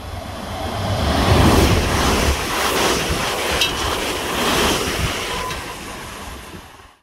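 Electric multiple-unit train passing close at speed: a loud rushing of wheels on rail and air that swells in the first second or so, holds, then fades away, with wind buffeting the microphone. A brief high squeal sounds about midway.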